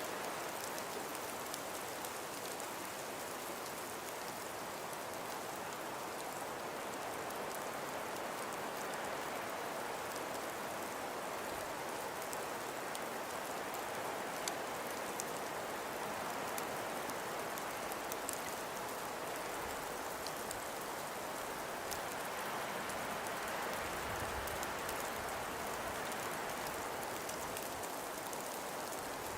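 Steady hiss of wind-driven snowstorm ambience, with scattered faint ticks of precipitation striking a surface.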